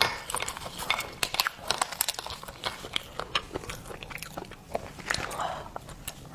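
Hard lobster shells crackling and clicking as they are handled and cracked open, with biting and chewing close to the microphone.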